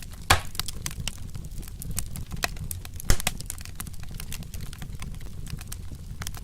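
Wood fire crackling: a dense run of irregular pops and snaps over a low rumble of flame, with two sharp louder pops, one just after the start and one about three seconds in.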